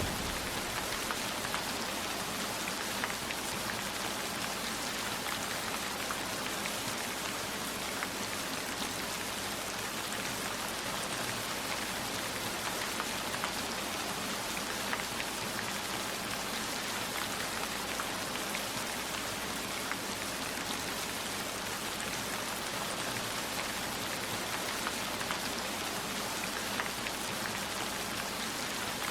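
Steady heavy rain, an even hiss dotted with many small drop ticks, unchanging throughout.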